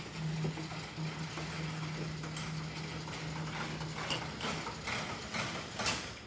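Overhead door opener running with a steady hum that stops about four and a half seconds in, while the door gives a run of irregular clacks and knocks.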